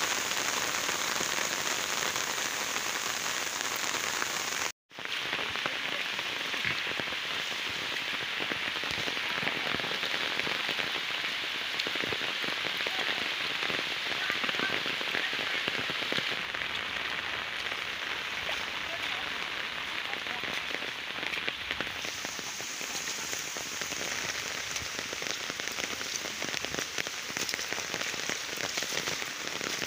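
Heavy rain falling steadily on leaves and wet ground, a dense even hiss. The sound cuts out for a moment about five seconds in.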